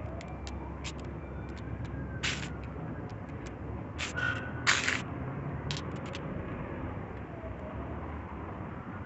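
A distant siren wailing in slow rising and falling sweeps over a low steady rumble. Scattered clicks and a few short harsh sounds in the middle, the loudest just under five seconds in.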